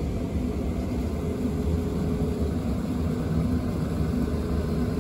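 South Western Railway Class 455 electric multiple unit moving slowly past: a steady low rumble with a faint hum.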